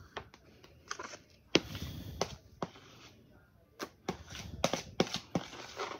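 Spatula scooping and scraping whipped cream out of one bowl into another. About ten irregular knocks and taps come through, with soft wet scraping between them.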